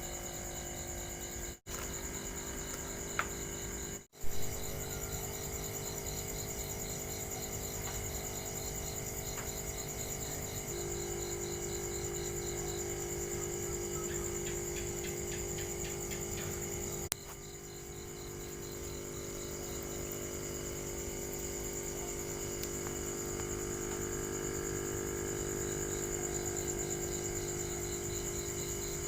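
Electric aquarium air pump running inside a styrofoam noise-reducing box, giving a steady muffled hum, with a high, steady chirring throughout. The sound cuts out briefly twice in the first few seconds, and a click comes a little past halfway, after which the hum changes.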